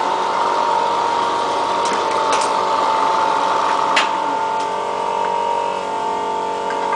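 Small milling machine (Elliott Omnimill 00) running with a steady whine, with a few light clicks and a sharper knock about four seconds in.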